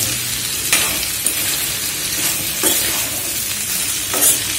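Sliced okra sizzling in hot oil in a kadai, stirred with a steel spoon that scrapes and knocks against the pan a few times over the steady sizzle.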